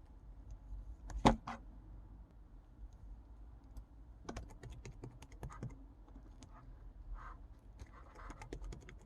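Pink slime being kneaded and squished by hand, giving a run of small crisp clicking pops, with one louder pop about a second in and the clicks growing dense from about four seconds in.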